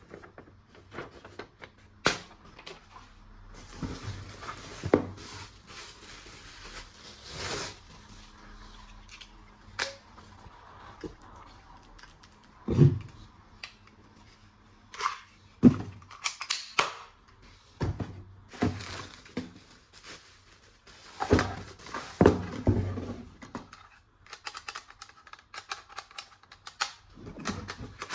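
Plastic toy guns and their packaging being handled: irregular clicks and knocks of plastic parts, with stretches of crinkling and rustling of plastic wrap.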